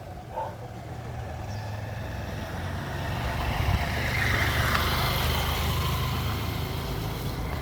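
A road vehicle's engine, a low steady rumble that grows louder over the first few seconds and then holds.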